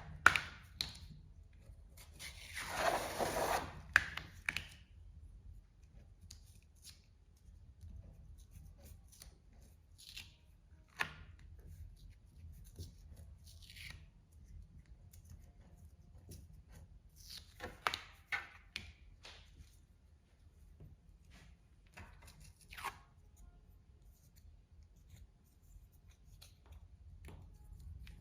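Felt being handled and peeled off a sticky cutting mat: a longer tearing rustle about two to four seconds in, then scattered short rustles and taps.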